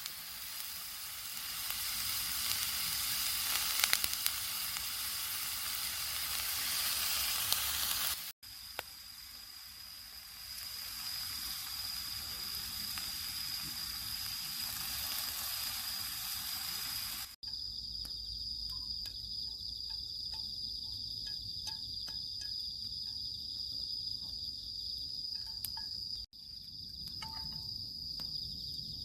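A steady sizzling hiss over continuous high-pitched insect chirring, broken by cuts into separate clips. About two-thirds of the way through, the sizzle drops away, leaving the insect chirring with faint scattered clicks.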